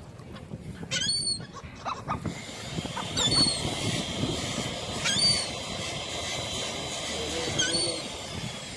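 Seagulls calling: four short runs of quick, high-pitched call notes about two seconds apart, over steady background noise.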